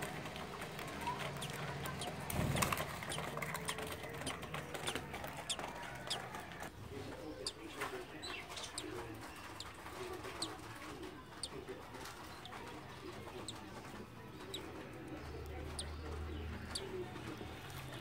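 Birds calling: many short, sharp high chirps, thicker from about seven seconds in, over low cooing calls.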